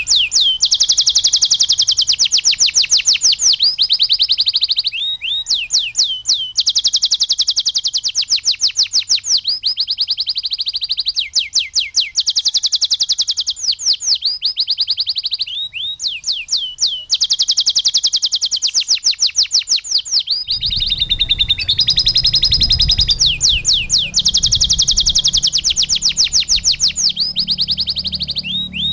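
Domestic canary singing a long run of fast rolling trills, each phrase a rapid string of repeated high notes, with brief breaks between phrases. A low rumble comes in underneath about two-thirds of the way through.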